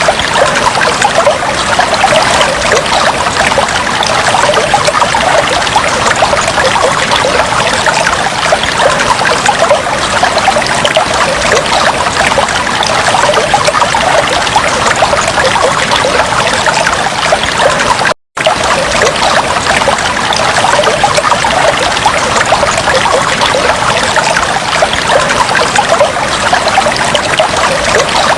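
Fish tank water trickling and bubbling steadily, as from an aquarium filter's outflow. It cuts out for a split second about two-thirds of the way through.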